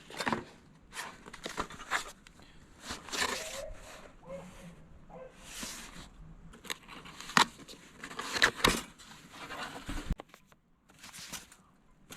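Intermittent rustling and crinkling of packaging as gear is handled, broken by a few sharp clicks and knocks.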